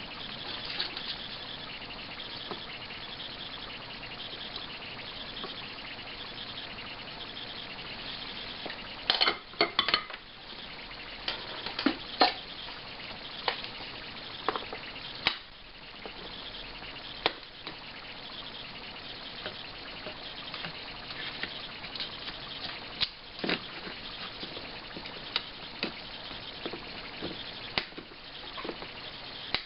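Hand soldering a TDA2030 amplifier chip and capacitors onto a circuit board: a steady hiss with scattered sharp clicks and crackles of sizzling solder flux and tools touching the board, a dense cluster about nine seconds in.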